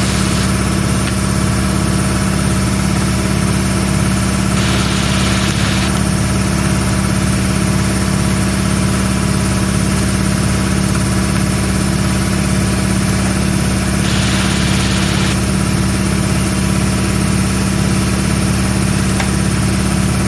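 Shop air compressor running steadily with a loud, constant motor-and-pump drone, with two brief hissing bursts about 5 and 15 seconds in.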